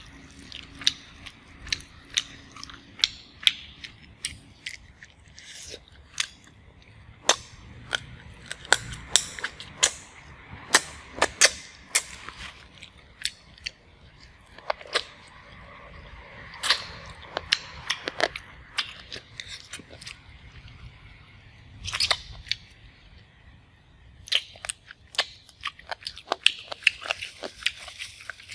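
Close-miked chewing and mouth sounds of a person eating with her hands: many sharp, irregular smacks and crunchy clicks, a few of them much louder than the rest.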